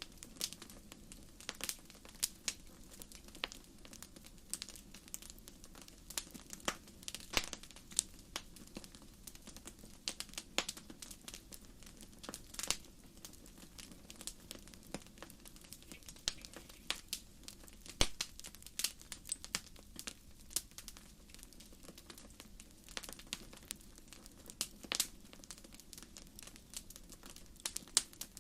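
Wood fire burning with irregular sharp crackles and pops of splitting firewood over a low steady hiss of flame.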